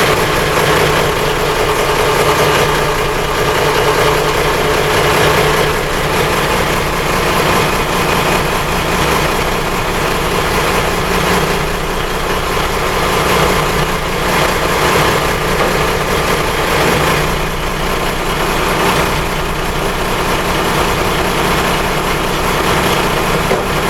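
The inboard engine of a Yanmar DE35B boat idling steadily.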